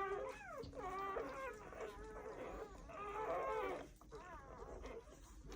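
Dog whimpering and whining: a run of high cries, their pitch rising and falling, fainter in the last second or so.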